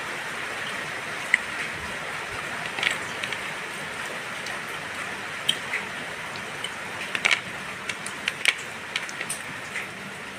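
Steady rain hiss with scattered sharp clicks and ticks, more of them in the second half.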